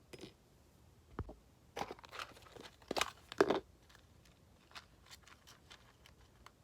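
Hamster gnawing on a hard food biscuit: irregular small crunches and crackles, busiest in the middle, then scattered light ticks.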